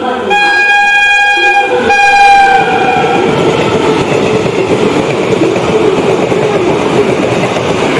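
WAP-5 electric locomotive horn sounding twice, one long blast and then a short one, as the train comes in. It is followed by the coaches passing close by with a steady rushing rattle of wheels on rails.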